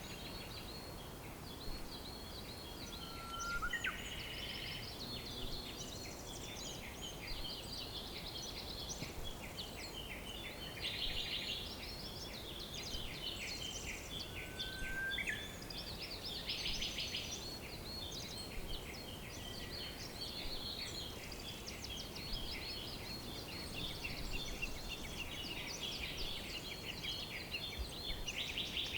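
Dense chorus of many songbirds chirping and trilling without pause, over a steady low background hiss, with two short rising whistles among them.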